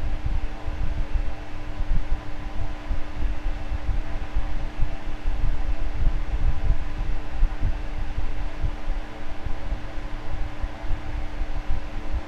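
Electric fan running steadily, a low rushing of air with a fluttery low rumble and a steady hum from the motor.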